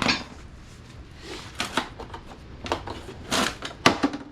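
Hand tools and metal parts being handled during a rear differential teardown: a handful of irregular clinks and knocks.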